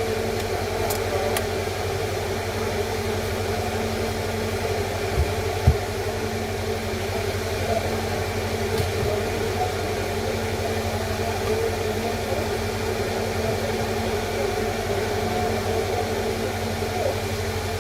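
Steady machine hum with several constant tones over a noisy background, broken by two light knocks about five seconds in.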